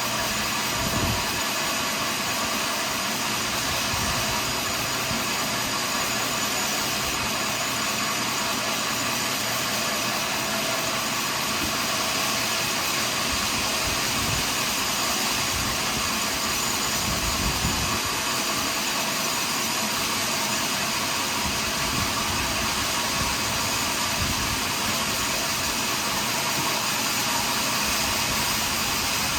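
Sawmill machinery running steadily, an engine-driven hum with a continuous noisy whine over it, unchanging throughout.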